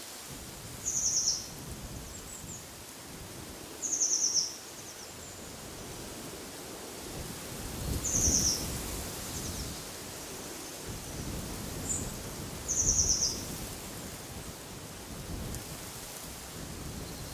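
A songbird repeating a short, high, rapid trill four times, roughly every four seconds, with a few fainter chirps between. Behind it, wind blows steadily through trees, with low rumbling gusts.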